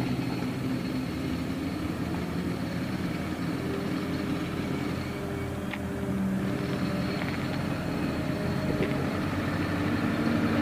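A car engine running steadily, a low hum with no change in speed.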